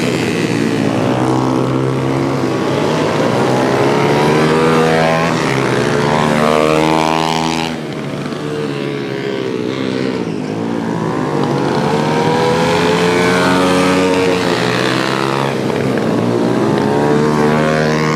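Pit bike engines revving hard as the small motorcycles race past, their pitch rising and falling through the gears, with more than one engine heard at once. The sound drops briefly about eight seconds in, then builds again.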